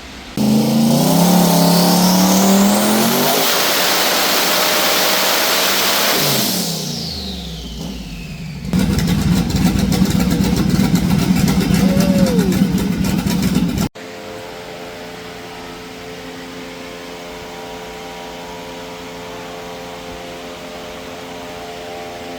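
Twin-turbo 427 LS V8 making a hard pull on a hub dyno: it revs up with a rising pitch and a loud rush of turbo noise, then backs off with a falling whistle. A second loud stretch of steady high-rpm running with a rapid crackle cuts off suddenly, leaving a quieter steady running sound. The tuner judges the pull to need more fuel.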